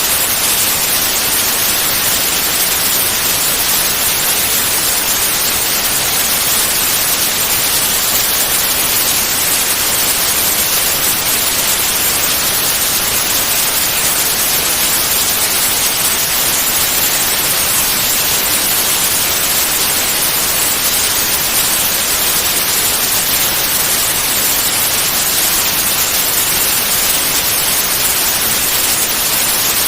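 Continuous white noise: an even, steady hiss, brightest in the high frequencies, with no change in level.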